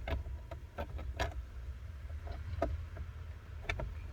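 Irregular light clicks and knocks of a console part being handled and pushed into its mounting hole, over a steady low hum.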